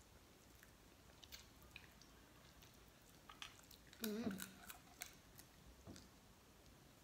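Faint mouth sounds of a person eating lobster meat by hand: scattered small clicks of chewing and lip smacks, with a short hummed vocal sound about four seconds in.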